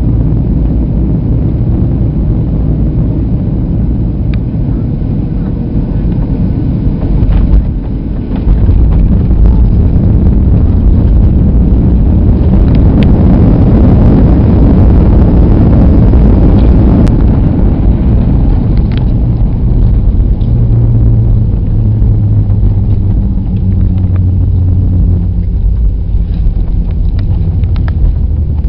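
Airliner cabin noise: a loud, continuous rumble from the jet and airflow, with a short dip about eight seconds in, then swelling for several seconds before easing into a steadier hum.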